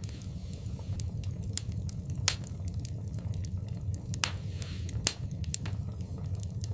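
Wood fire burning in a fireplace: a steady low rumble of flames with irregular sharp crackles and pops. The loudest pop comes about two seconds in, and a brief hiss follows a pop a little past four seconds.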